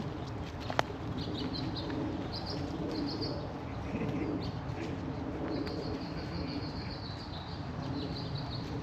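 Small birds chirping, with a longer high trill in the middle, over a steady low background hum. A single sharp click comes just under a second in.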